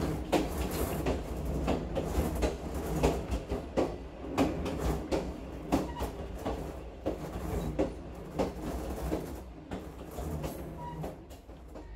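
Long-distance passenger train running along the track: a steady low rumble of the carriage with frequent, irregular clicks and knocks of the wheels over the rail joints.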